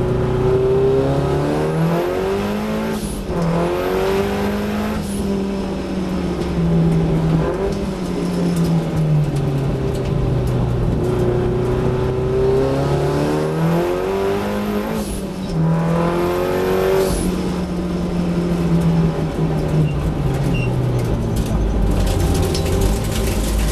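Datsun 1600 race car's four-cylinder engine heard from inside the cabin, its pitch climbing under hard acceleration and falling off into corners. Upshifts break the climb about three seconds in and again about fifteen seconds in.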